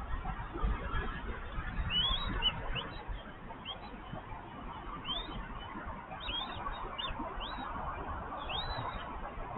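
Short, high bird chirps, about a dozen, each rising and falling, scattered from about two seconds in, over a steady low rumble of background noise.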